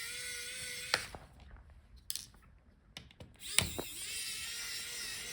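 Small electric screwdriver whining as it backs out the screws holding a laptop heatsink, in two runs: the first stops with a click about a second in, and after a pause with a few small clicks the motor starts again a little past halfway.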